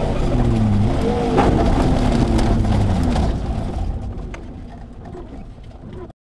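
Rally 4x4's engine heard from on board, its revs falling as the vehicle slows on a gravel track, with a few sharp clicks. The sound fades out and then cuts off abruptly near the end.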